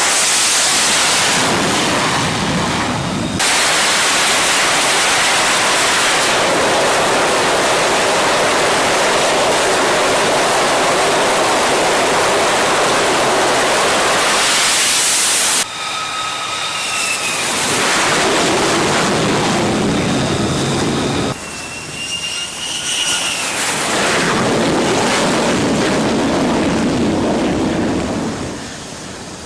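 F-35B fighter's jet engine running at high power, a loud rushing roar. After about sixteen seconds the roar eases and a high turbine whine that bends in pitch comes through. The sound changes abruptly three times, as separate shots are cut together.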